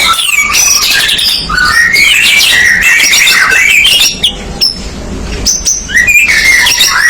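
White-rumped shama (murai batu) singing a continuous, varied song of clear whistles and quick chattering phrases, with a quieter stretch about two-thirds of the way through.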